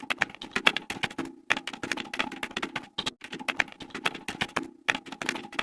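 Sewing machine stitching in short runs: rapid clicking of the needle mechanism over a steady motor hum, pausing briefly twice.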